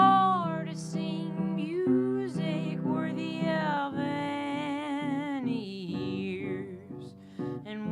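Folk song performed live: a woman sings long, held notes that slide up and down in pitch over acoustic guitar.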